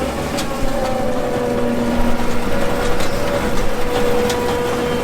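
Combine harvester's diesel engine running close by with a steady hum, with a few sharp clicks over it.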